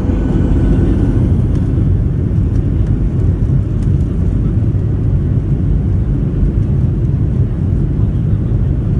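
Cabin noise inside a Boeing 737-800 with its CFM56-7B turbofans at high thrust on the take-off roll: a loud, steady low rumble. A few faint high tones fade out about a second in.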